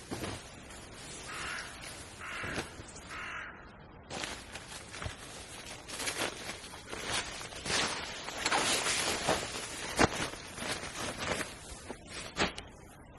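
A crow cawing three times, about a second apart. After that come rustling and a run of sharp knocks and clicks, the sharpest about ten seconds in.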